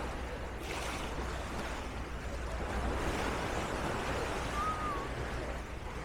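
Small sea waves washing on a sandy beach, a steady hiss of surf with a low wind rumble on the microphone.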